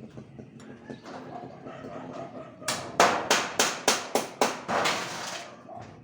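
A run of about eight sharp hammer blows, roughly three a second, each ringing briefly, starting a little under three seconds in.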